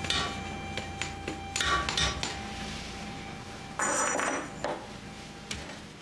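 Kitchen clatter: dishes and utensils knocking and clinking, with a louder rattle and metallic ring about four seconds in.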